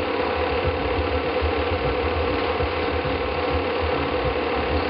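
Film projector running, a steady, even mechanical clatter from the film advance mechanism.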